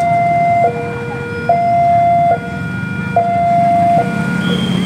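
Two-tone hi-lo siren, switching between a higher and a lower note about every 0.8 seconds and stopping about four seconds in, over a steady low engine rumble.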